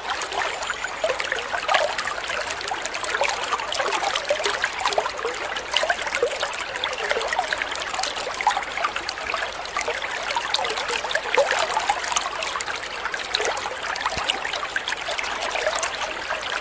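Water trickling and babbling in a small stream: a steady, unbroken run of small splashes and gurgles.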